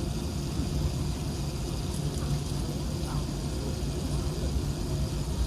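Steady low cabin hum inside an Airbus A380-861 on the ground, from its engines and air conditioning running, with faint passenger chatter.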